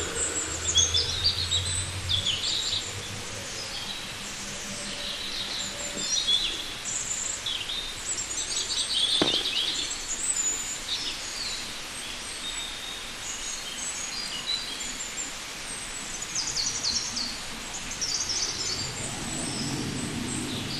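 Small birds chirping and twittering on and off over a steady outdoor background hiss. A low rumble fades out in the first few seconds, and there is one sharp click about nine seconds in.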